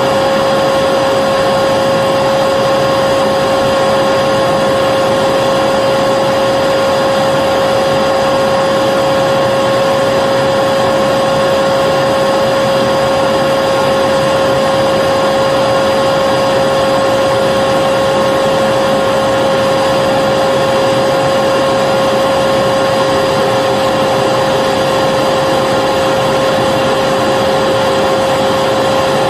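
Vacuum cleaner running continuously: a steady rush of air with a constant motor whine, unchanging in pitch and loudness.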